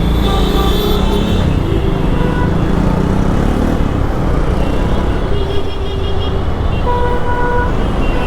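Motorcycle riding through congested road traffic: a steady rumble of engines and road noise, with vehicle horns honking several times, one held for under a second about seven seconds in.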